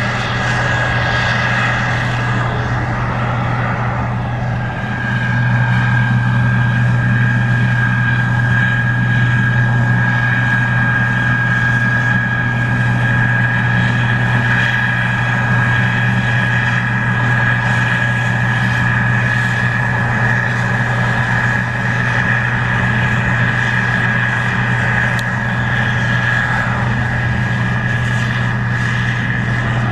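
Case IH 2144 Axial-Flow combine running steadily while harvesting corn: a low diesel hum with a steady high whine over it, getting a little louder about five seconds in.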